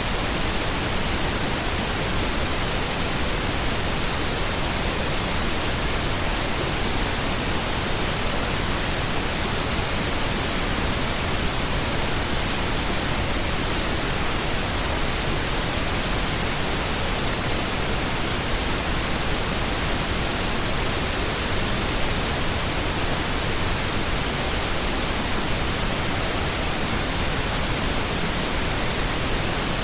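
Steady synthetic pink noise: an even, unchanging hiss with its energy spread across the whole range, fuller in the low end than white noise.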